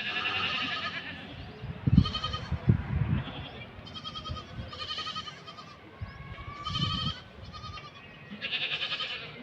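A string of short, bleat-like animal calls, about one a second, with a few low thuds in between.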